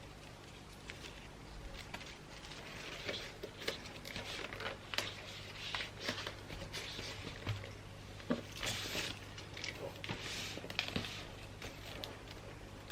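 Wrapping paper rustling and crinkling as a gift is wrapped by hand, with scattered light taps and clicks, over a faint steady low hum.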